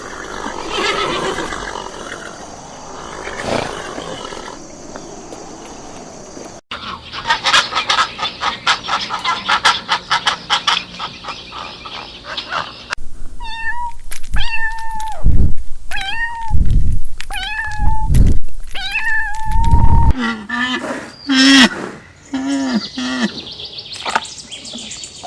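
A run of different farm animal calls cut one after another, with hard cuts between them. In the middle come about five separate cat meows, each under a second long; a fast pulsed call comes before them and lower calls follow.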